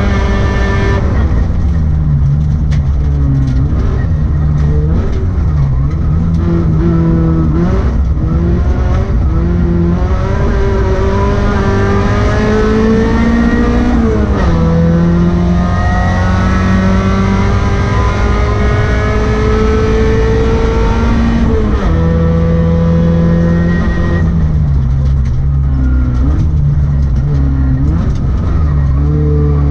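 Rally car engine under hard driving, its pitch rising under acceleration and dropping sharply at gear changes. There are several quick lifts and dips early on, and two long pulls that each end in an upshift, about halfway through and again later.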